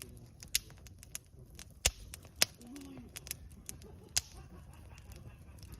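Campfire wood crackling: irregular sharp pops, about five loud snaps and many small ticks, over a low steady rumble from the burning fire.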